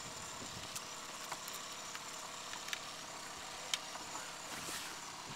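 Boat's outboard motor idling steadily and faintly, with a few light clicks, one sharper about two-thirds of the way through.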